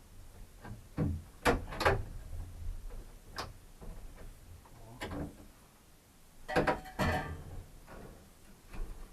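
Irregular knocks and clatters from camp gear being handled and set in place, with a few single taps and two louder bunches of rattling knocks: one about a second and a half in, the other around two-thirds of the way through.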